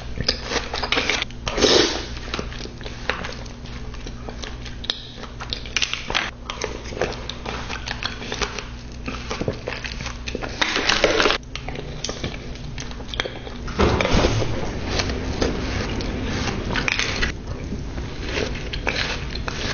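Close-miked eating sounds: irregular crunching and crackling bites and chewing, with a few louder crunches.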